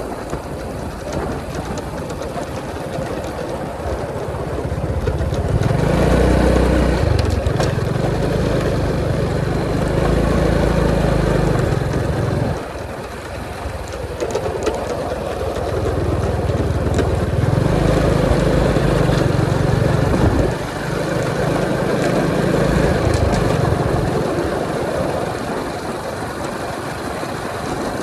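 Honda 125 motorcycle engine running at road speed with wind noise. The engine note swells louder twice and drops off suddenly each time.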